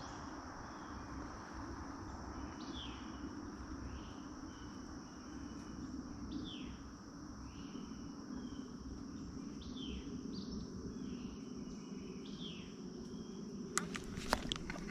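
Swamp ambience: a bird repeats a short, falling call every couple of seconds over a steady high-pitched drone of insects. A few sharp clicks come near the end.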